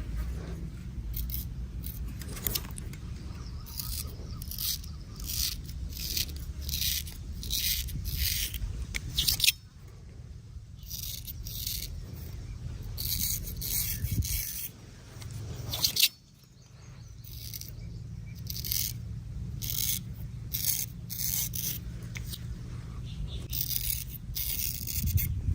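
Barber's razor scraping across skin and stubble in short repeated strokes, about one or two a second, over a steady low hum. The strokes break off suddenly twice.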